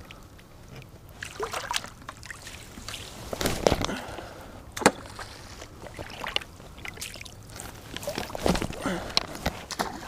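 Irregular sloshing and splashing of shallow marsh water, with scattered rustles and one sharp knock about five seconds in.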